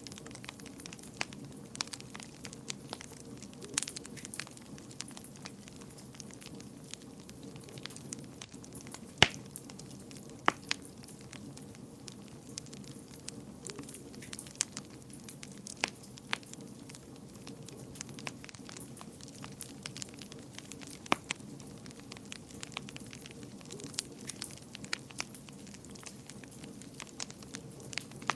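Wood fire burning in a fireplace: a steady low rush of flames with irregular sharp crackles and pops, the loudest pop about nine seconds in.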